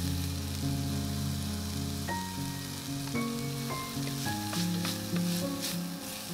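Food sizzling in hot oil in a frying pan: a steady frying hiss that starts abruptly at the beginning, with a few light clicks in the second half. Background music plays underneath.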